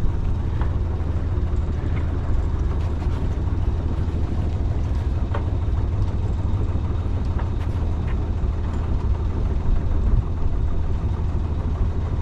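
Sailing yacht's engine running steadily at low revs, a constant low rumble with a few faint clicks.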